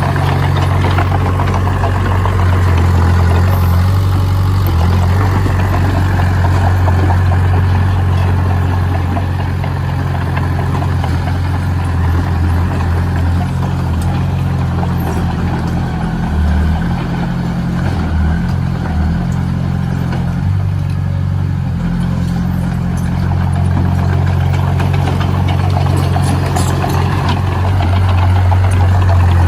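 Engine of a heavy construction machine running with a steady low drone, its pitch wavering for a few seconds around the middle before settling again.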